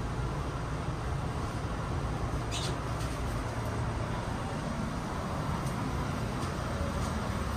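Passenger train running along the track: a steady low rumble of wheels and running gear, with a brief sharp click about two and a half seconds in.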